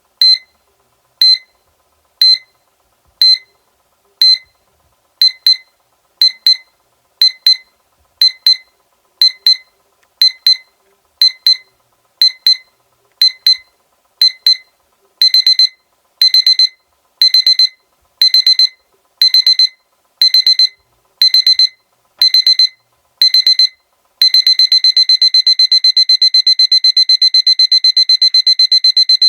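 SEIKO electronic alarm clock beeping in a high pitch, getting more insistent as it goes on. Short beeps about once a second become longer, louder bursts past the middle. Near the end they turn into a continuous rapid beeping.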